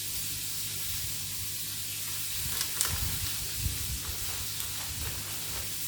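Vegetables frying in a hot pan, sizzling with a steady hiss, with a few light clicks and soft knocks between about two and four seconds in.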